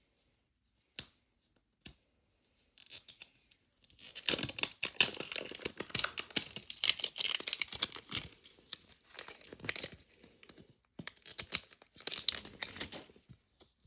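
Small plastic wrappers being torn open and crinkled by hand, in bursts of crackly rustling and tearing that start about four seconds in and stop and start several times.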